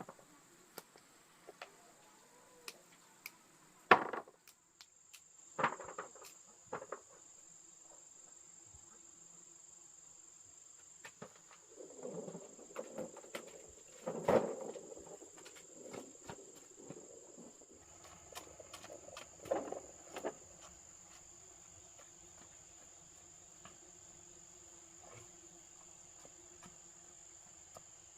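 Insects chirring steadily in a high, even drone, with a handful of sharp knocks at irregular intervals, the loudest about four seconds in and near fourteen seconds, and a stretch of rustling and handling noise in the middle.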